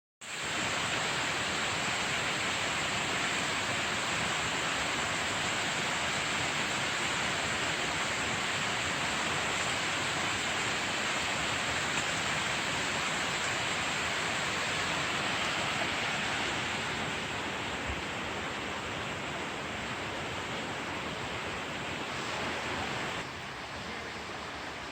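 Small mountain waterfall rushing: a steady, even hiss of falling water that drops a little in level about 23 seconds in.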